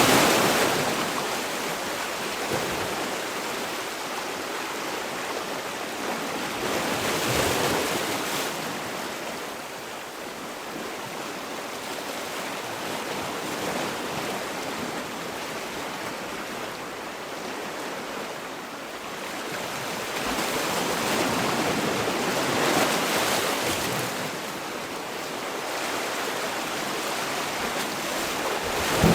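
Sea waves washing in and drawing back: a continuous rush of water that swells into a louder surge every several seconds and then eases off.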